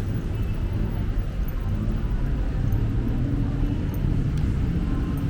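Steady low rumble of city road traffic, with vehicle engines running close by.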